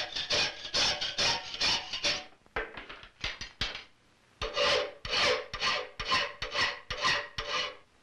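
Hand file worked in quick back-and-forth strokes, two to three a second, on a sheet-brass side plate, with a faint ring of the metal under the later strokes. The strokes come in two runs, stopping briefly about four seconds in.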